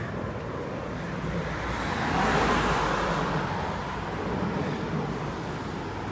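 Road traffic noise: a passing motor vehicle swells and fades about two to three seconds in, over a steady rushing of wind and road noise.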